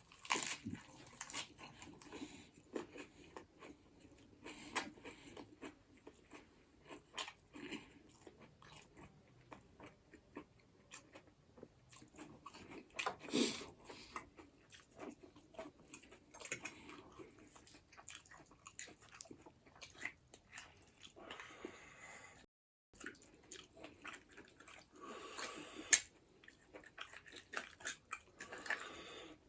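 Close-miked eating: a person chewing and biting into buffalo bone marrow with noodles. Irregular mouth clicks and small crunches throughout, with one sharp, louder click near the end.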